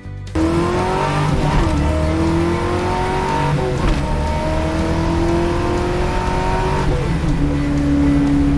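A truck engine accelerating hard through the gears. Its pitch climbs, falls at an upshift about three and a half seconds in, climbs again, and falls at a second shift near seven seconds before holding steady.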